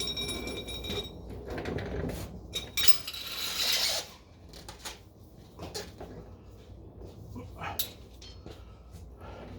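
Light metallic clinks, knocks and rattles of tools and exhaust parts being handled, with a short rustling scrape about three seconds in.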